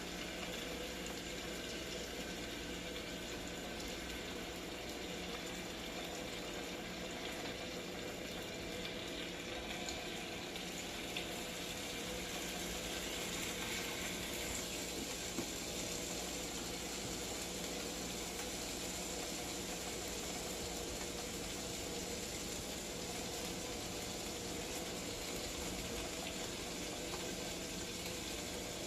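Steady sizzling hiss of food cooking over the grill, unchanging throughout.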